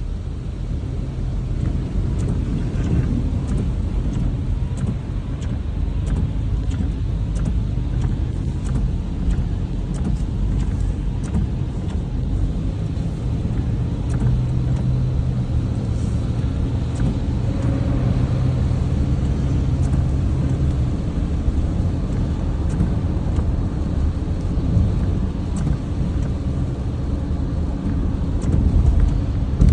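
Steady low rumble of a car driving, with many faint scattered ticks over it.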